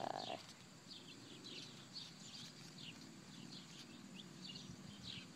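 Songbirds chirping faintly in the background: a run of short, quick chirps, several a second.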